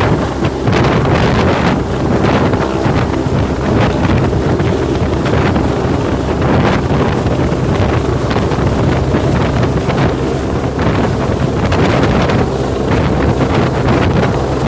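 Helicopter flying low overhead, its rotor and engine noise mixed with heavy wind buffeting the microphone, loud and unbroken.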